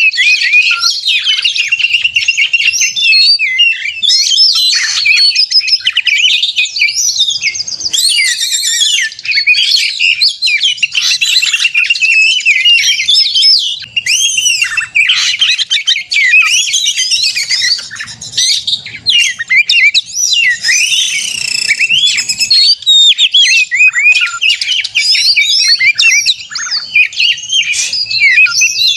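Oriental magpie-robin (kacer) singing loudly and without a break in full, competitive 'narung' song: a rapid, varied run of rising and falling whistles and fast repeated notes.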